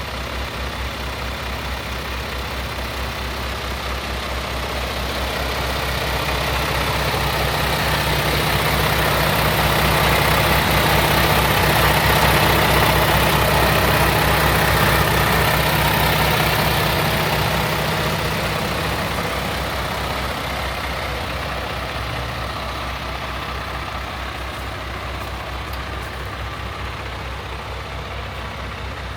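Paccar MX-11 inline-six diesel of a Peterbilt 579 tractor idling steadily. The sound swells louder through the middle and then eases back down.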